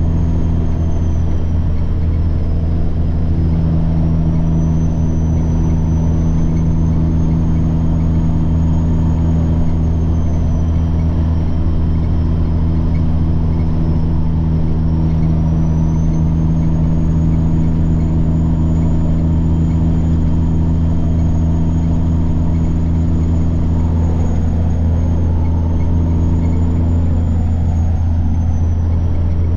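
Semi truck's diesel engine running steadily under way, with a high turbo whine that slowly drifts up and down in pitch.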